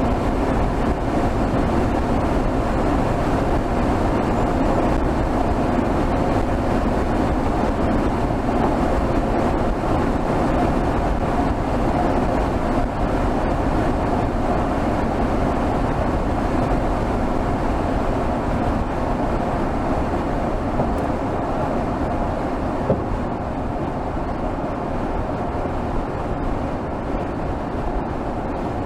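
Mercedes GLS 450's turbocharged 3.0-litre inline-six engine, heard from under the hood, running steadily while cruising at highway speed. The drone eases slightly about two-thirds of the way through.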